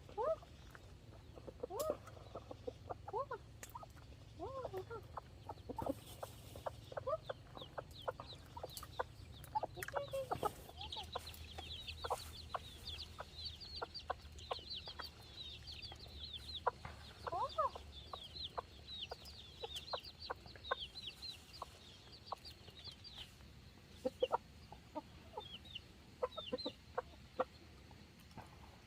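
Chickens clucking in short, repeated calls, joined through the middle by a dense run of high, rapid cheeping.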